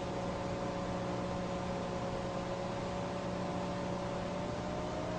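Steady hiss and hum of an aircraft's cockpit intercom audio, with the engine drone heard as a few constant tones, one of which drifts slightly up in pitch near the end.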